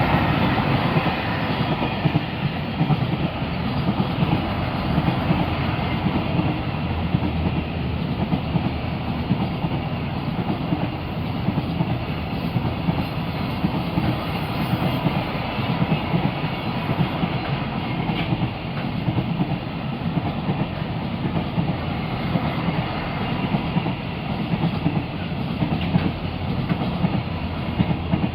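JR Freight train passing at speed, its wagons rumbling and clacking steadily over the rail joints, easing slightly near the end.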